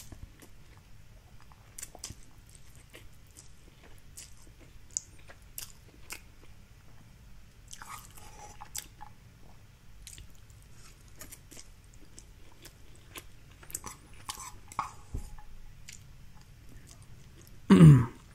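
A person chewing a mouthful of Indomie Mi Goreng instant fried noodles close to the microphone, with soft wet mouth clicks and smacks. There is a brief louder mouth sound about eight seconds in, and a voice breaks in loudly just before the end.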